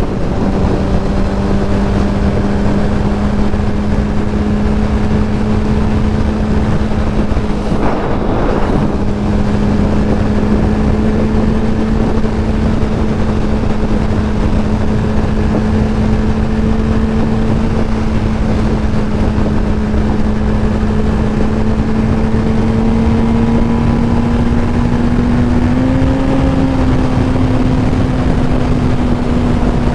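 Yamaha R1 inline-four engine holding a steady cruise, its pitch creeping slowly up with a small rise near the end, under heavy wind rush on the microphone. A brief rush of noise passes about eight seconds in.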